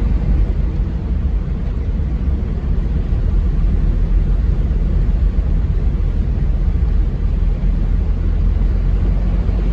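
Toyota MR2 driving slowly through deep floodwater: a steady low rumble of the engine mixed with the rushing noise of water around the car.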